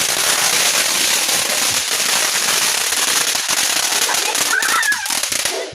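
Fireworks crackling: a dense, steady stream of many small rapid pops and crackles, with the sound cutting out abruptly at the very end.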